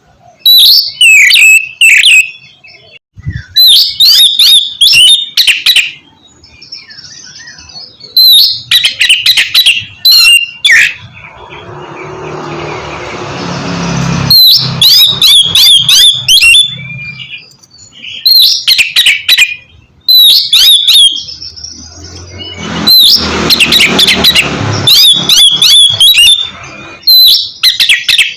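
Oriental magpie-robin singing loud, ringing whistled phrases of a second or two each, broken by short pauses. Twice a hissing rush of noise swells up between the phrases.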